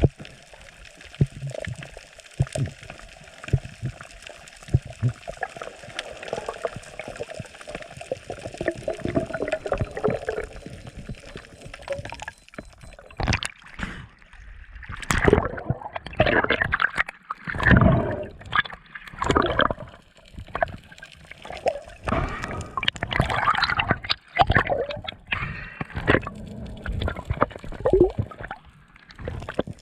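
Water gurgling and sloshing, with irregular louder splashes coming in from about halfway through.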